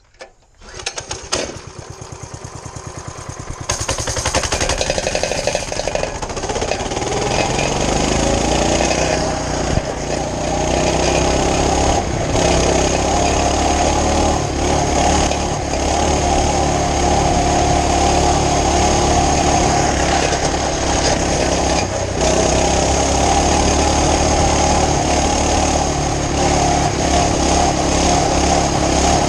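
Small mini bike engine starting: a few seconds of rapid firing pulses, then it catches and runs steadily, rising in pitch, with a few brief stumbles. The owner thinks the carburetor jet is too small and needs drilling open a little.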